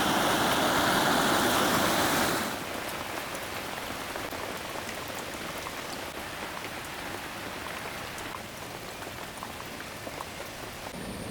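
Rushing stream water for about two seconds, then it cuts abruptly to quieter steady rainfall with scattered drop ticks.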